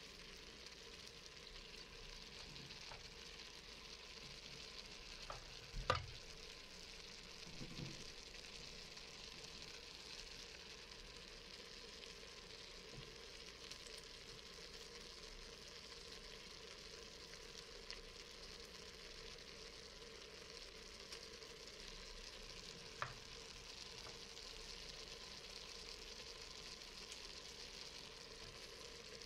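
Faint steady sizzling of shredded carrots and onions frying in an Instant Pot's stainless steel inner pot, with a couple of small sharp clicks, the loudest about six seconds in.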